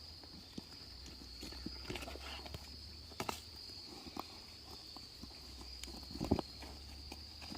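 Insects, crickets or the like, droning steadily at a high pitch, with scattered irregular knocks and clicks over it, the loudest a thud about six seconds in.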